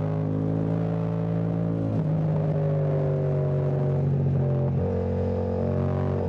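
Yamaha Tracer 7's CP2 689 cc parallel-twin engine running under steady throttle while riding, its pitch drifting up slightly and stepping to a new note a couple of times.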